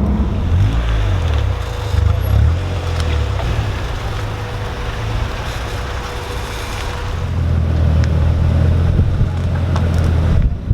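Car engine and exhaust running while cruising. The engine note rises and falls over the first couple of seconds, then holds steady later on.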